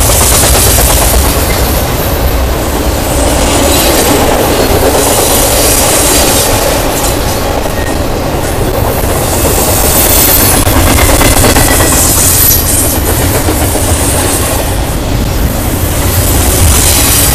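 Intermodal freight train cars rolling past, with a steady rumble and clatter of steel wheels over the rails and brief high-pitched wheel squeals now and then.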